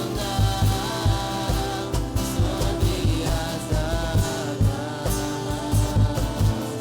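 A live worship band plays a Christian praise song, with singing over a steady drum beat.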